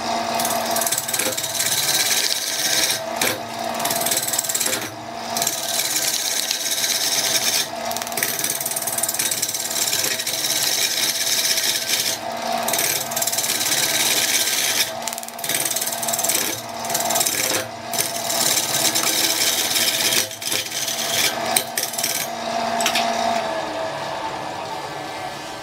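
A power tool working wood: a motor's steady hum under a dense, rough cutting noise, broken by many short dips as the tool leaves and meets the wood, tailing off near the end.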